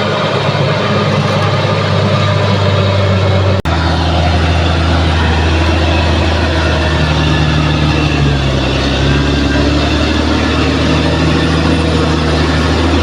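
Bulldozer's diesel engine running steadily under a deep, even hum, with a brief dropout about a third of the way in.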